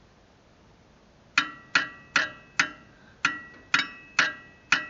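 Hammer striking a metal part on the tractor: eight sharp blows at about two a second, each ringing metallically, starting about a second and a half in.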